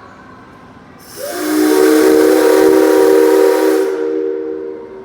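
The whistle of C57 135, a steam locomotive, sounds one long blast of about three seconds, starting about a second in. Several tones sound together as a chord, with a loud hiss of escaping steam or air over them, then the blast dies away.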